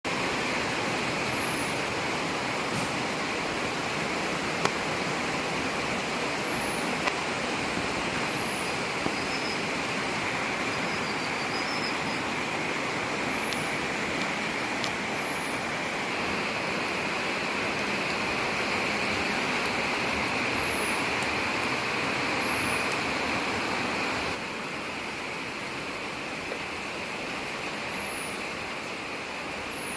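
Steady rain falling, a constant hiss with a few small clicks of drops, easing slightly about three-quarters of the way through.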